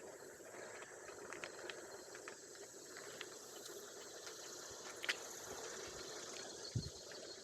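Cannondale mountain bike on road tyres rolling along a park path, a steady low hiss with scattered small clicks and knocks from the bike, a sharp click about five seconds in and a dull bump near the end.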